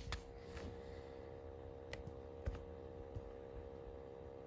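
Faint steady hum with a few soft clicks, including two about two and two and a half seconds in.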